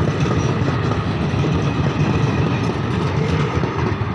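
Passenger coaches of an Indian Railways express train rolling past, a loud steady rumble of wheels on the rails that starts to fade at the very end as the last coach goes by.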